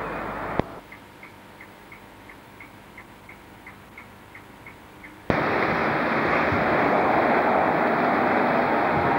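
A click cuts off an outdoor rumble. A quiet stretch follows with faint ticks about three a second. About five seconds in, a loud steady rushing starts suddenly: a train running in towards a station platform.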